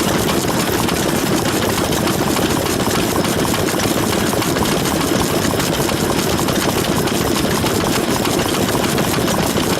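Vintage Japanese stationary engine (hatsudoki) running steadily with a fast, even chugging.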